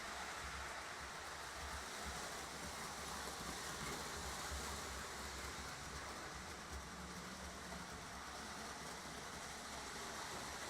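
Lionel model trains running on the layout's three-rail track: a steady whir of motors and wheels with a low hum underneath.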